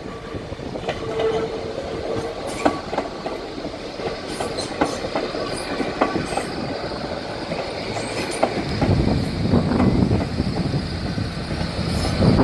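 A train running past on the track, its wheels clicking irregularly over the rails with a thin high squeal, and a low rumble that grows louder over the last few seconds as it comes closer.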